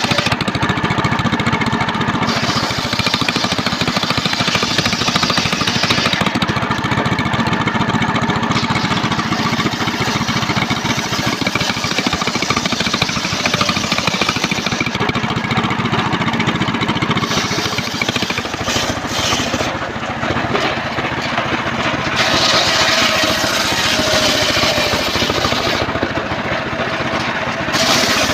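Engine-driven circular sawmill running continuously, its blade ripping through a trembesi (rain tree) log. The high, hissing edge of the cut comes and goes every few seconds over the steady engine noise.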